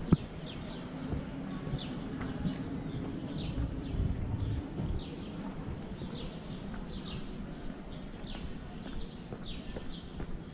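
Small bird calling with short, falling chirps, one every half second to a second, over a low steady hum of outdoor street ambience, with one sharp click at the very start.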